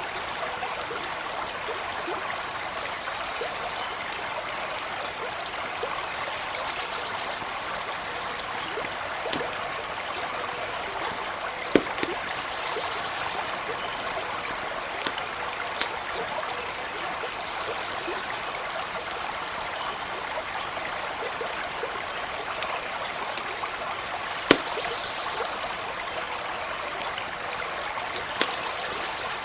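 A brook running and trickling steadily, with a campfire giving scattered sharp pops and crackles; the loudest pops come about twelve seconds in and again near twenty-five seconds.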